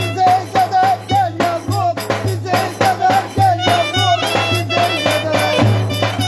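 Traditional Turkish folk dance music played by a band: an ornamented melody with quick turns over a steady percussion beat and a deep, pulsing bass.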